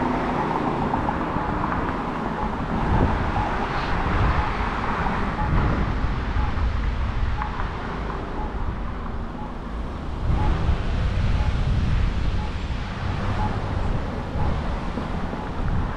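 Road traffic going by, heard with wind buffeting the microphone while riding an e-bike along the street, with faint evenly spaced high pips in the background.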